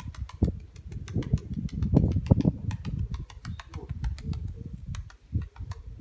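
Domestic Nikolaev pigeons cooing in low, rolling bursts, strongest about two seconds in, with many small sharp clicks scattered throughout.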